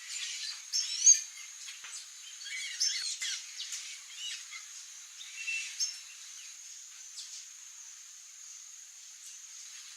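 Several wild songbirds chirping and calling in quick short notes, busiest in the first six seconds and sparse after, over a steady high-pitched insect buzz.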